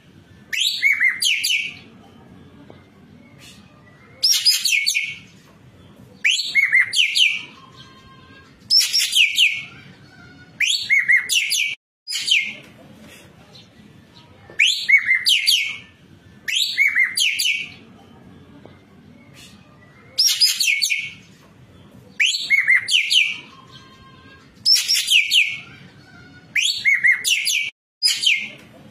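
Ekek keling bird calling in repeated short bursts, about one every two seconds. Each burst is a rapid run of high, quickly falling notes.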